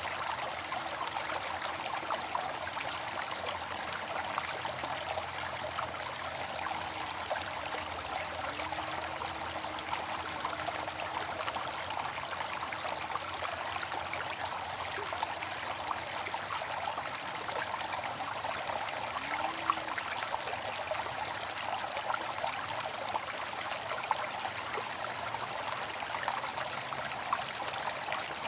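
Water fountain splashing and trickling steadily, a continuous patter of small droplets.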